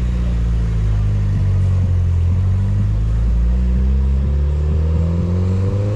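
Car engine running steadily, its pitch rising over the last couple of seconds as it speeds up.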